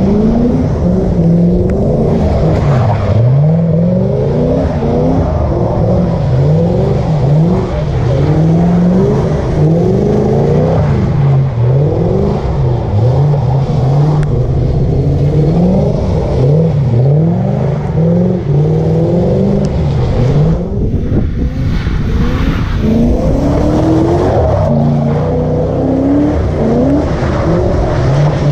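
Drift car engines revving hard, the pitch climbing and dropping again over and over as the cars slide and do donuts on wet pavement.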